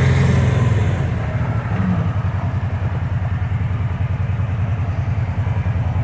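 Kawasaki Teryx side-by-side's engine running. It eases off about a second in, then runs at low revs with an even pulsing beat.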